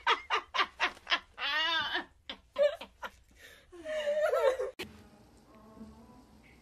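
A person laughing in a quick run of short bursts, then again with a longer, wavering voice; the laughter cuts off abruptly about five seconds in.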